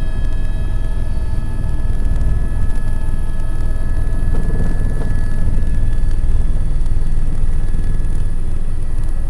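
Tour helicopter in flight: a loud, steady low rumble from the rotor and engine, with several steady high whining tones above it.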